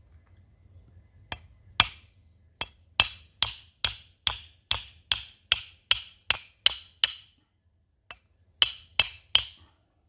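A series of sharp, hard knocks: a steady run of about three strikes a second, a short pause, then a quicker cluster of four or five near the end.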